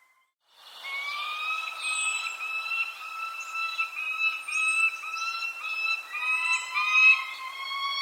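Birds calling after a half-second gap of near silence. Many repeated whistled calls run in an overlapping chorus, broken into short notes about twice a second, with high, short falling chirps over the top.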